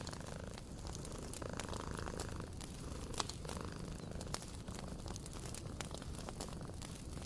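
A cat purring steadily over a wood fire crackling, with scattered sharp pops, the loudest about three seconds in.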